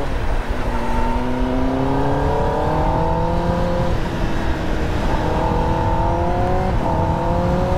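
Kawasaki ZX-10R's inline-four engine, breathing through a Leo Vince slip-on exhaust, pulling under acceleration while the bike is ridden. The engine note climbs steadily and drops back about four seconds in and again near the end, as at upshifts.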